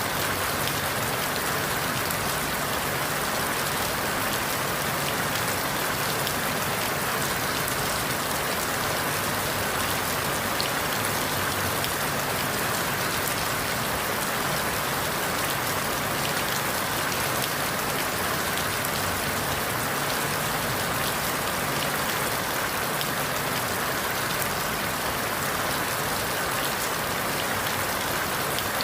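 Steady rain falling through forest leaves, a dense even patter of drops. The rain keeps the same strength throughout.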